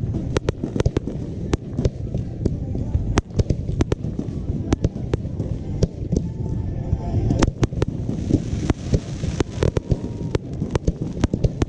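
Fireworks display: rapid, irregular bangs of bursting shells, several a second and overlapping, over a continuous low rumble.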